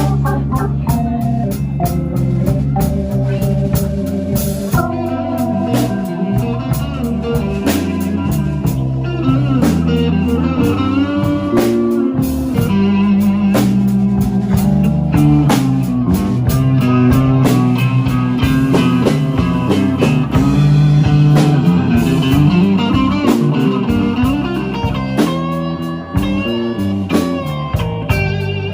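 Live blues band playing an instrumental passage of a slow blues: an electric guitar takes the lead with many bent, sliding notes over bass and drums.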